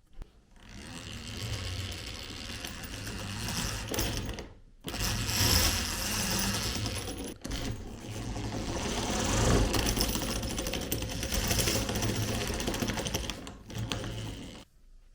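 Rapid mechanical rattling, typical of an old hand-crank grinder's gears being turned. It stops briefly twice and runs until shortly before the end.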